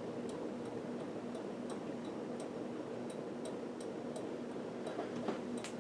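1980s Homestead WhisperFan II ceiling fan running steadily: a low motor hum with a light, regular ticking about three times a second.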